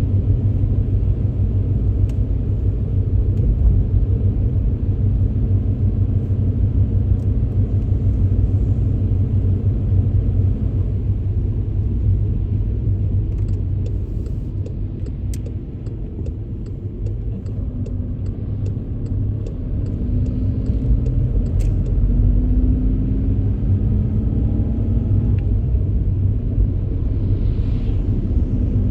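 Car driving on wet roads in heavy rain: steady low road and engine rumble that eases off around the middle, then a rising engine note as the car picks up speed again. A run of light, sharp ticks comes through midway.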